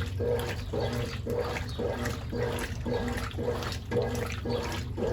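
Brastemp Ative 11 kg (BWL11) washing machine agitating a load of bed and bath linens in water: the motor hums steadily while the water sloshes back and forth in an even rhythm, a little over two strokes a second.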